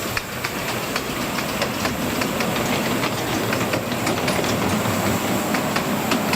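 Miniature railway train running along the track, its wheels clicking over the rail joints about three times a second over a steady running rumble.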